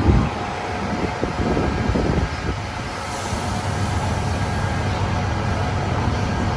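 Wind gusting on the microphone over the steady drone of vehicle engines on the street.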